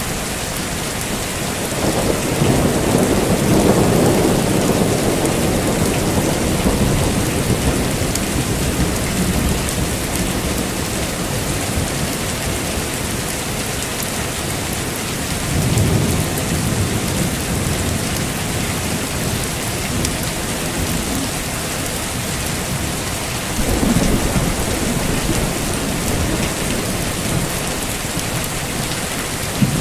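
Heavy rain falling steadily, with thunder rumbling in three low swells, the longest starting about two seconds in and lasting several seconds, the others about a third and four fifths of the way through.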